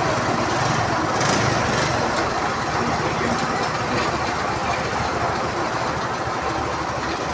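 Tractor engine running steadily, with a short burst of hiss about a second in.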